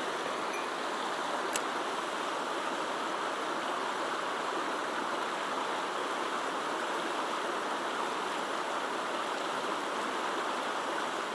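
Mountain headwater stream flowing steadily over rocks, an even rushing of water, with one light click about a second and a half in.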